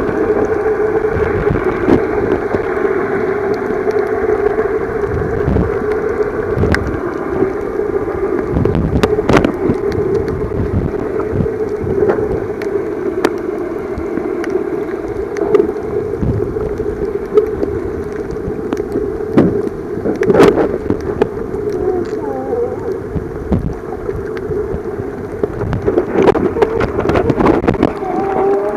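Sound picked up underwater while snorkelling: a steady low drone with many scattered clicks and pops.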